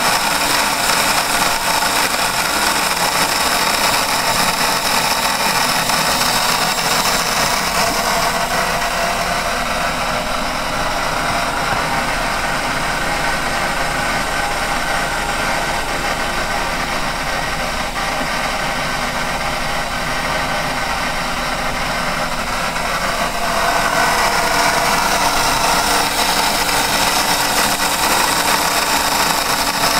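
1960s Unimat lathe, retrofitted to CNC, running steadily while turning a piece of wood at a slow feed; it gets a little louder about three-quarters of the way through.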